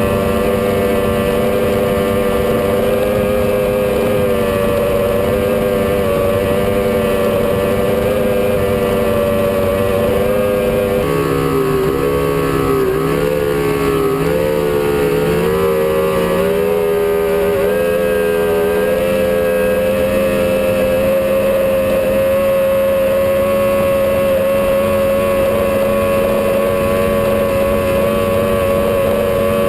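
Powerboat engine running at speed, mostly at a steady pitch over rushing wind and water. About a third of the way in, the engine speed wavers up and down for several seconds, then settles steady again.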